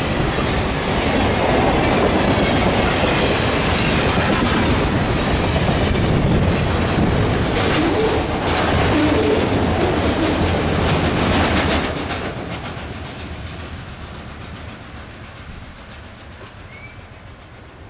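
Freight train cars rolling past close by, wheels clattering over the rails. About twelve seconds in the sound drops off sharply as the train passes, then fades away.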